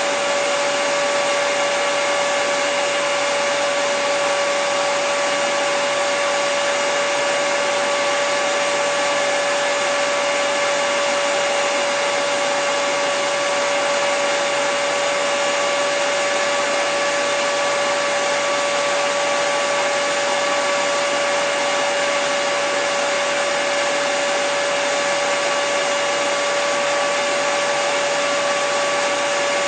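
Handheld hairdryer running continuously at a constant setting: a steady rush of blown air with a steady motor whine over it.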